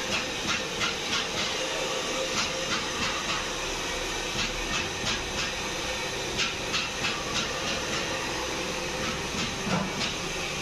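Hair dryer blowing steadily, with frequent short clicks or taps over it.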